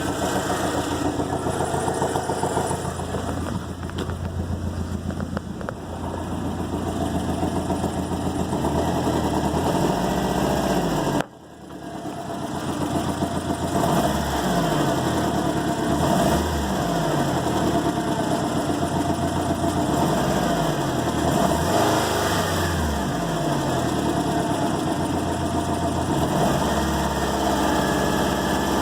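Subaru WRX's EJ255 turbocharged flat-four engine running, idling steadily at first, then revved up and down repeatedly after a brief break about 11 seconds in. The owner puts a noise from it down to the timing belt.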